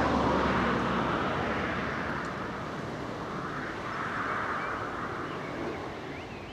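Jet noise from the Avro Vulcan's four Rolls-Royce Olympus turbojets, a steady rushing sound. It fades, swells again about two-thirds of the way through, then drops away near the end.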